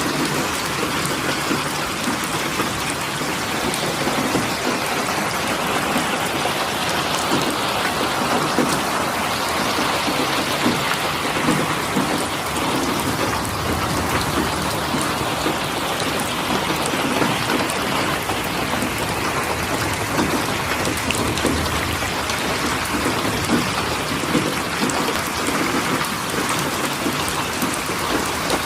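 Steady rain falling, a dense, even hiss of many drops on a hard surface.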